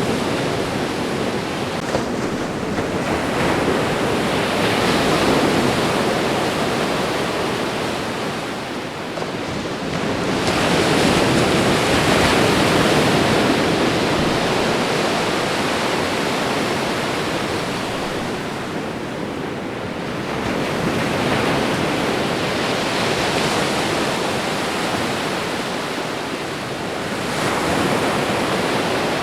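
Ocean waves washing onto a shore: a continuous rush of surf that swells and eases, surging about four times.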